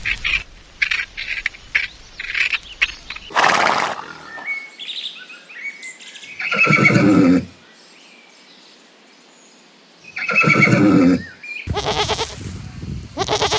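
Farm animals calling in turn: a quick series of short, high chirping calls at first, then several separate calls about a second long each, with a quiet pause before the last few.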